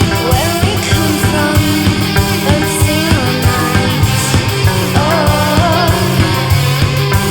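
Heavy rock music with a steady, driving drum beat and a melodic line bending in pitch over it.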